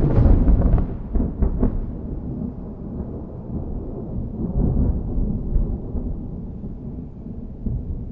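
Thunder: a sudden sharp crack with crackling over the first second or two, then a long rolling rumble that slowly fades.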